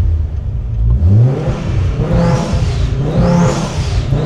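Audi S6's turbocharged inline five-cylinder engine revved up from idle about a second in and held by its launch control at about 4,500 rpm, the revs swinging up and down twice against the limiter.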